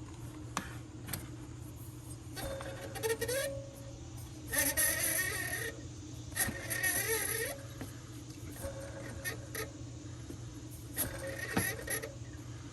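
Water pump pulley on a 2005 Chevrolet Suburban spun by hand with the belt off, its bearing giving a wavering whine in about five short bursts of about a second each, one per spin. The noise is the sign of a failing water pump bearing.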